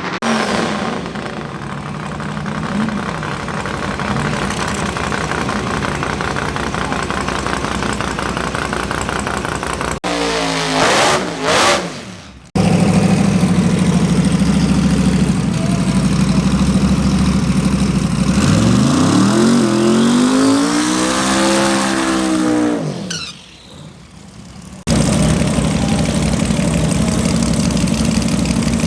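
Drag race car engines running and revving, in several abruptly cut segments. Near the middle, one engine's note climbs and then falls back.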